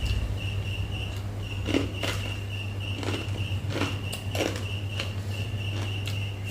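A person chewing food, with irregular short mouth clicks and smacks every half second to a second.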